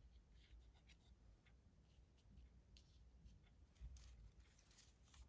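Near silence: faint scattered ticks and soft rustles over a low room hum.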